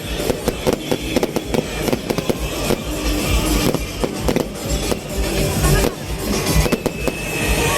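Fireworks going off in quick, irregular succession: many sharp cracks and bangs, several a second, with music playing underneath.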